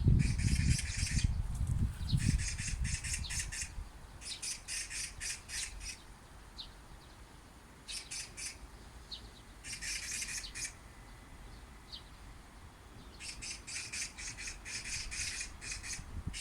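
Oriental magpie giving its harsh, rattling chatter: about six bursts of rapid repeated notes, with pauses between them. A low rumble sits under the first two seconds.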